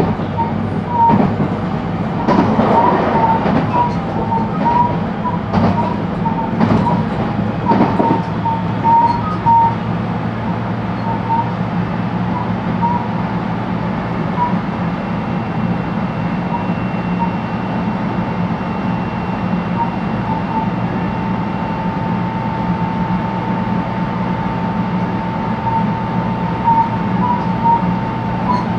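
Cabin running sound of a JR West 223-series electric train at speed between stations: a steady low rumble with a sustained whine near 1 kHz from the traction motors and inverter. Several sharp rail-joint clacks come in the first eight seconds, after which the run is smooth.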